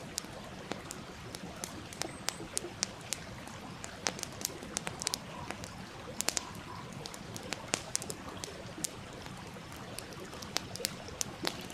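Wood campfire crackling, with many sharp snaps and pops over the steady rush of a stream.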